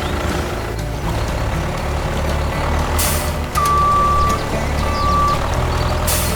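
Heavy vehicle engine rumbling steadily, with two sharp air-brake hisses, one about three seconds in and one near the end, and two long reversing beeps between them.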